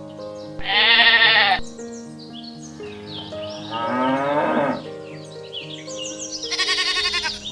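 A sheep bleats three times, each call about a second long with a wavering tremble, over light background music.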